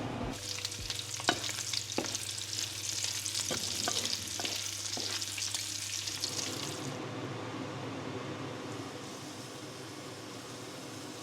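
Food sizzling in a frying pan as it is stirred, with several sharp taps of the utensil against the pan; the sizzle dies down about seven seconds in, leaving a softer hiss.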